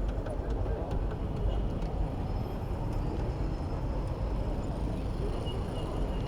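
Steady rumbling road and wind noise from riding a bicycle through city traffic, with passing vehicles mixed in.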